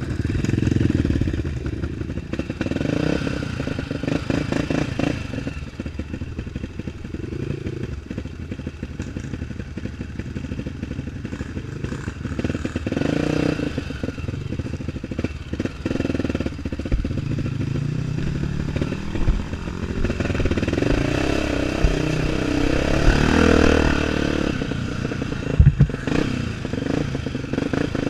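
Single-cylinder four-stroke trail motorcycle engine running and revving up and down repeatedly, with clattering and a few sharp knocks from the bike.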